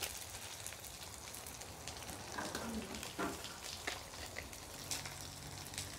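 Gentle sizzle of pounded galangal, lemongrass and garlic frying in oil in a wok, with a few light clicks.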